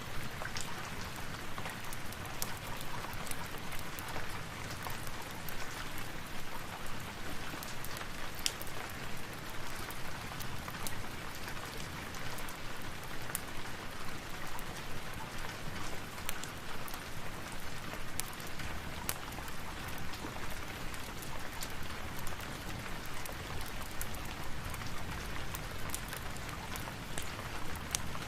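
Steady rainfall, an even hiss, with many small sharp crackles and ticks scattered throughout, as from a crackling fireplace mixed with the rain.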